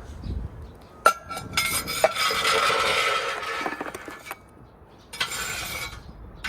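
Metal scraping and clinking inside a wood-fired grill oven as it is scraped clean. A sharp clink about a second in, then a scrape lasting about two seconds, and a shorter scrape near the end.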